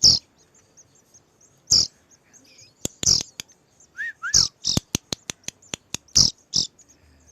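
Hand-reared nestling songbirds begging for food, giving short, shrill, high calls about every second or so, with two brief lower chirps about four seconds in. A quick run of sharp clicks comes in the middle.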